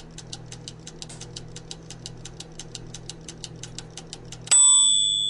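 A toaster's timer ticking quickly and evenly, about eight ticks a second, over a steady hum, then a loud bell ding about four and a half seconds in that rings on and fades: the timer running out.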